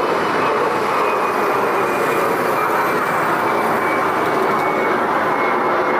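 Steady, loud rushing noise of a moving vehicle heard from inside, with a faint high whine running through it.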